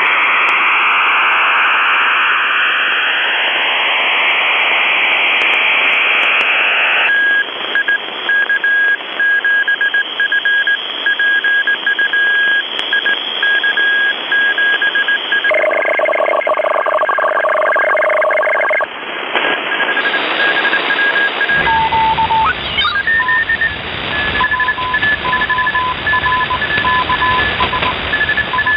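Shortwave radio receiver audio from a web-controlled software-defined radio, jumping between frequencies. First comes loud static hiss with gliding whistles, then a steady Morse code beep keyed over the hiss. About halfway through, several tones switch on and off together like a digital data signal, and near the end two Morse signals at different pitches beep over the static.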